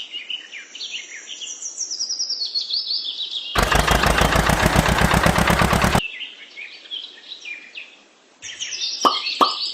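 Birds chirping with many quick falling notes, cut into for about two and a half seconds in the middle by a loud, fast rattling noise. Near the end a few quick downward-sliding blips join the chirping.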